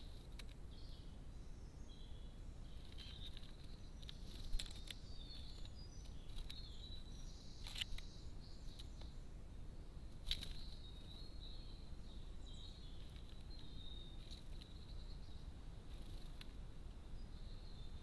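Small garden birds giving short, high chirps on and off, with a few sharp taps, the loudest about four and a half seconds in, over a faint steady background hiss.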